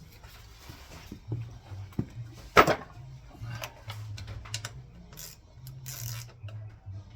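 Short blasts of compressed air from a blow gun regulated to about 25 psi, blowing out a lawnmower carburetor, among small clicks and knocks of handling. The loudest blast comes about two and a half seconds in, with shorter hisses near the end.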